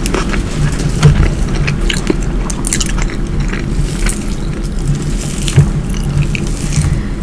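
Close-miked chewing and wet mouth clicks of someone eating, with two louder bites about a second in and past the middle, over a steady low hum.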